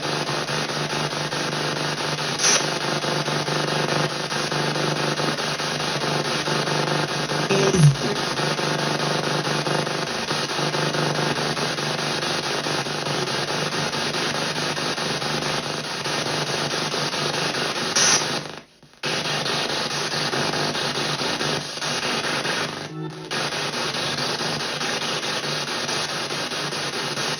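PSB7 spirit box sweeping radio stations in reverse sweep through stereo speakers. It plays continuous choppy static and hiss with a steady low hum and a few clicks, and cuts out suddenly twice in the second half.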